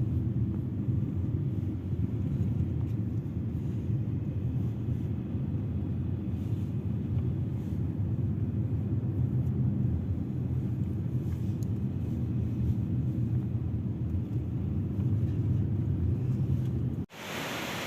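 Steady low rumble of a car driving. About 17 seconds in it cuts off abruptly and the steady rushing hiss of a waterfall begins.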